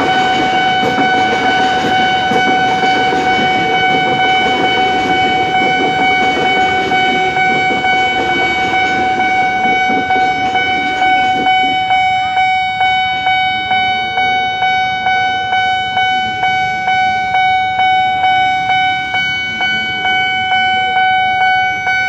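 KRL electric commuter train running over the level crossing, its wheels and motors rumbling and then fading away about halfway through. Throughout, the level crossing's warning bell keeps sounding, a steady ringing tone that pulses a little over once a second and stands out clearly once the train has gone.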